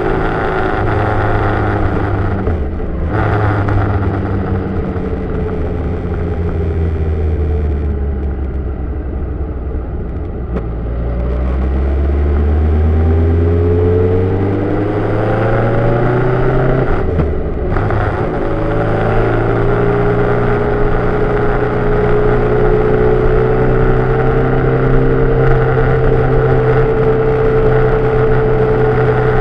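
Engine of the vehicle carrying the camera, heard from the mirror mount over steady road and wind noise. The engine note falls as it slows, then rises under acceleration. Brief breaks about three seconds in and again just past halfway sound like gear changes, and the engine then holds a steady pitch while cruising.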